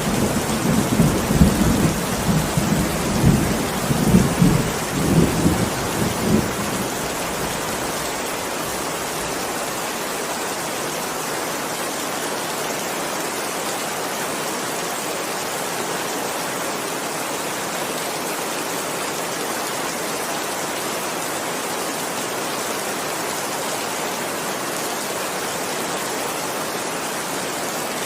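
Steady heavy rain with a rolling rumble of thunder at the start that dies away about six seconds in, leaving the rain hiss alone.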